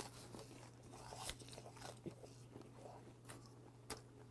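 Faint close-up chewing of a laver-wrapped bite of gwamegi, semi-dried saury, with a few soft crunches and mouth clicks scattered through.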